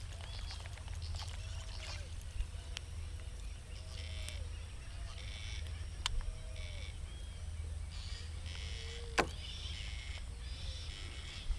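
Birds calling: a short rising-and-falling call repeats about once a second, with patches of higher chirping, over a steady low rumble. A few sharp clicks stand out, the loudest about nine seconds in.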